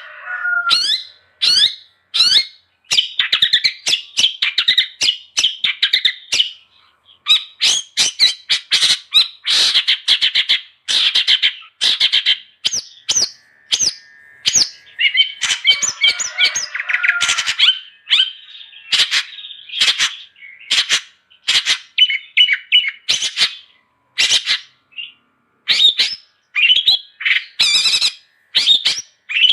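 Long-tailed shrike (cendet) singing in full voice: a rapid run of short, harsh notes mixed with whistled chirps, in bursts separated by brief pauses.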